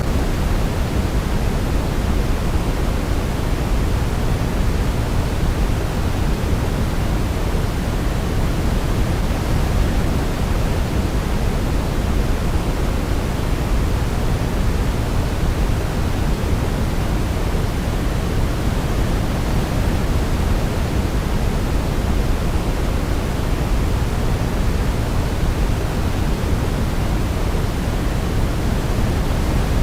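Steady, even noise with no melody, weighted toward the low end like pink noise: a continuous sleep-noise track.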